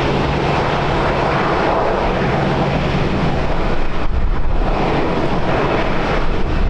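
Airliner engines running as the aircraft passes, a loud steady noise with a low hum that fades about three seconds in. Wind buffets the microphone near the end.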